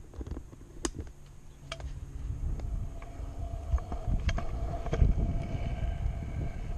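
Scooter riding on pavement, heard from a helmet-mounted camera: a low rumble of the wheels and wind on the microphone, with sharp clicks and knocks as the scooter rattles. A steady whine joins about halfway through.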